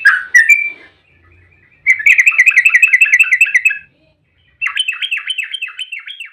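Yellow-vented bulbul song: a short warbled phrase, then two fast rattling trills of about nine repeated notes a second, the second trill made of falling notes. This is the rapid 'ropel' song used as a lure to make other bulbuls answer.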